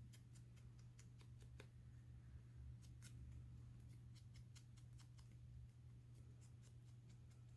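Faint, irregular small clicks and ticks from handling paper craft pieces, about two or three a second, over a steady low electrical hum.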